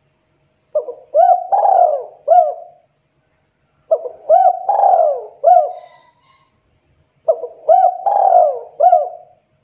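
Spotted dove (tekukur) cooing: three repeated phrases, each a couple of short hooked coos, one longer drawn-out coo and a final hooked coo, with brief pauses between them. This is a lure call, used to draw wild doves in.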